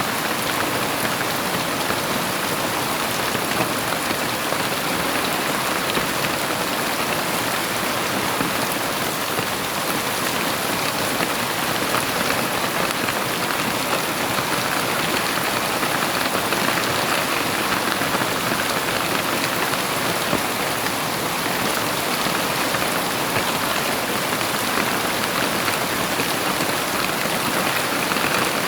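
Heavy rain falling steadily and evenly, a dense constant patter with no thunder heard.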